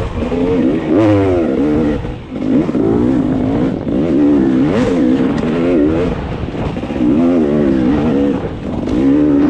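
Dirt bike engine revving up and falling back again and again, its pitch climbing and dropping every second or so.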